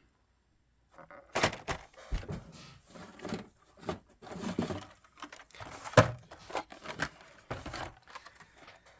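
A die-cast car's blister pack being torn open by hand: plastic and cardboard crackling and crinkling, with knocks, starting about a second in and a sharp crack about six seconds in.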